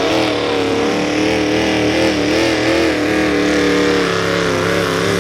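Mini modified pulling tractor's engine running at high revs, its pitch held steady with a slight up-and-down waver.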